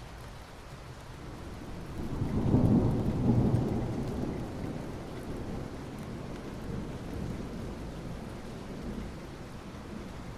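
Steady rain falling on asphalt, with a low rumble of distant thunder that swells about two seconds in and fades away over the next few seconds.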